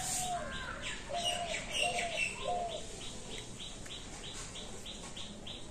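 A bird chirping over and over, about four short high chirps a second, with some lower curved notes mixed in during the first half.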